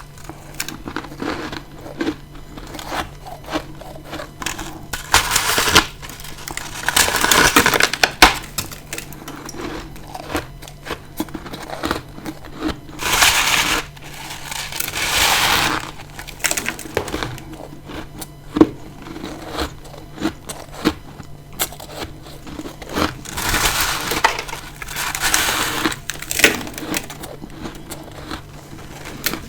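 Bites into frozen freezer frost, close to the mouth: a run of sharp crunchy cracks with several longer crunches of about a second each as the frost gives way.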